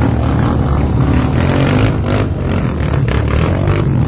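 An off-road motor vehicle's engine running loudly under load, with scraping and clattering over the trail.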